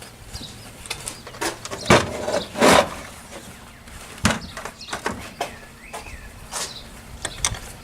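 Scattered clicks, knocks and short rustles of small carburetor parts and hand tools being handled on a work surface, the loudest a pair of knocks about two to three seconds in.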